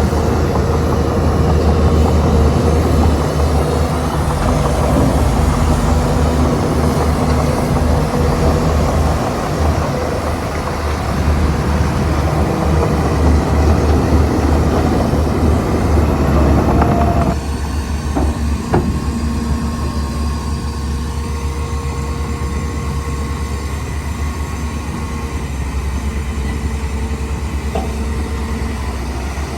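Shantui crawler bulldozer working, its diesel engine running hard under a rattling, clanking clatter like steel tracks. About two-thirds of the way through the sound drops suddenly to a quieter, steadier engine hum with a couple of short clicks.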